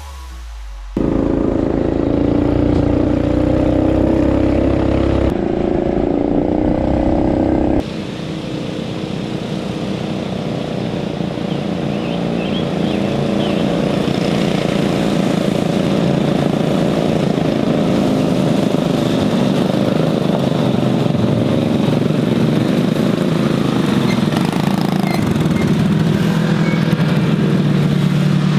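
Coleman CT200U mini bike's small single-cylinder engine running, heard in a few edited clips. For the first several seconds its pitch shifts. After that comes a steady rapid firing that slowly grows louder.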